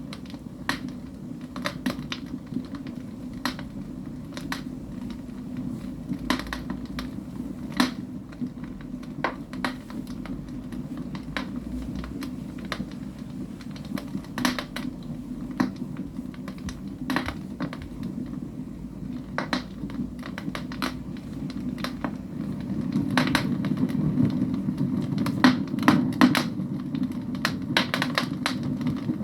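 Wood fire crackling in a fireplace: irregular sharp pops and clicks over a steady low rush of burning flames, which grows louder about two-thirds of the way through.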